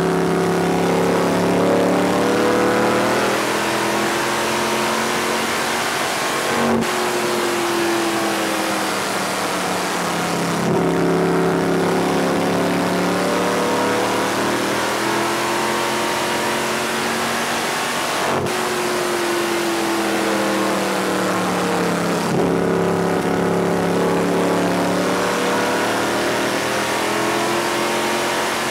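Race car's V8 engine at speed, heard from inside the car: its pitch falls and rises again in a repeating cycle every eleven seconds or so as it lets off and comes back on the power. A sharp knock comes about seven seconds in and again about eighteen seconds in.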